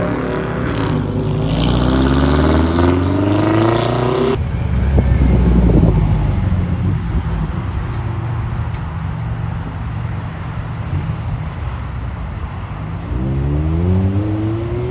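Cars accelerating past: first a BMW X5 M's twin-turbo V8 climbing in pitch as it pulls away. Then a modified Acura TSX with an aftermarket exhaust gives a low rumble and revs up again, rising in pitch near the end.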